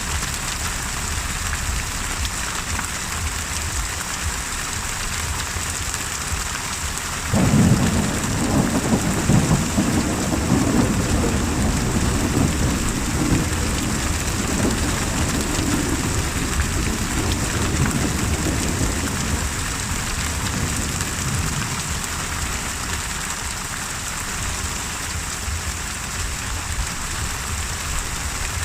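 Steady heavy rain hissing. About a quarter of the way in, a thunderclap breaks in suddenly and rolls on as a low rumble for about ten seconds before fading back into the rain.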